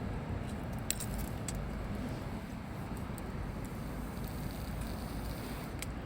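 A few sharp crackles and pops of a campfire, the loudest about a second in, over a steady low rumble of outdoor background noise.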